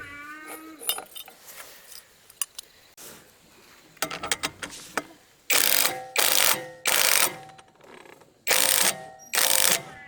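Hand work on metal engine parts: small metallic clicks and clinks, then five short harsh strokes, each about half a second long, in the second half.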